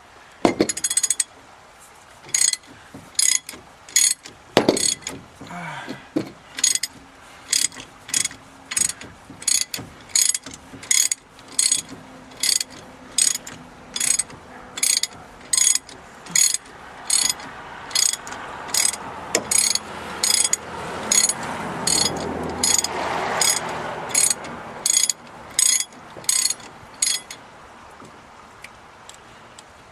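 Hand ratchet wrench with a socket clicking through repeated back strokes, about one and a half strokes a second, as a fastener is run off. A duller noise swells and fades behind the clicks in the second half.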